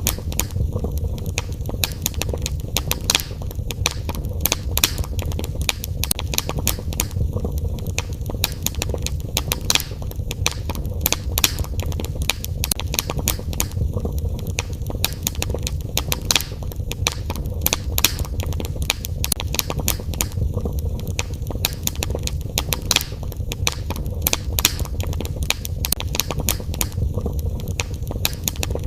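Fire burning in a fireplace, crackling with many sharp irregular pops over a steady low rumble of flames.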